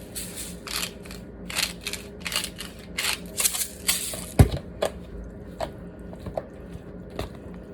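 Kitchen food-preparation sounds: a run of short, crunchy strokes about two a second, then a single loud knock about four and a half seconds in, followed by a few lighter clicks.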